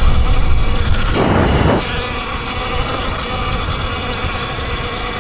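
Electric dirt bike riding: the motor's steady high whine over low wind rumble on the microphone, with a short rush of noise about a second in, after which it runs a little quieter.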